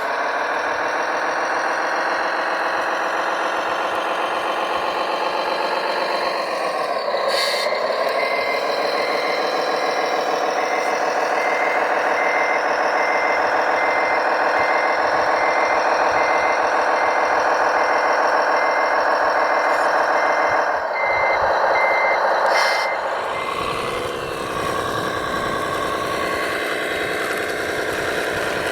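Radio-controlled model construction vehicle running with a steady whine that dips in pitch twice, while a reversing beeper sounds in regular beeps from about seven seconds in until a little past twenty-two seconds.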